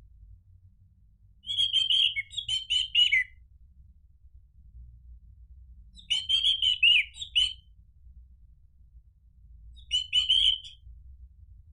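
Orange-headed thrush (anis merah) singing three short phrases of quick, chattering notes, a few seconds apart, the last one shortest.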